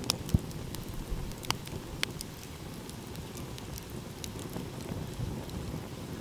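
Wood fire crackling, with scattered sharp pops (the loudest about half a second, one and a half, and two seconds in), over a low steady rumble.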